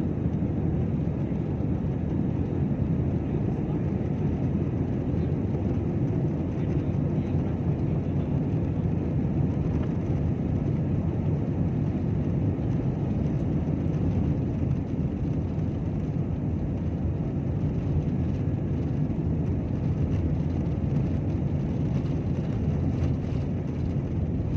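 Airplane taking off: a steady, loud, low rumble of engines and rushing air that holds even throughout.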